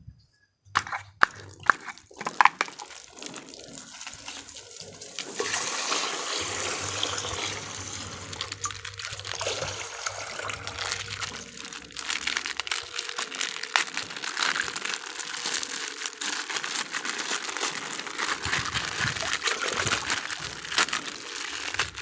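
Plastic toy packaging crinkling and rustling as it is unwrapped by hand, with many small clicks and crackles. It grows louder about five seconds in.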